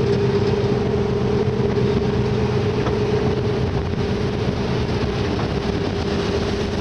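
A rescue icebreaker's engines and machinery running steadily: a constant drone with a steady mid-pitched hum over a wash of noise.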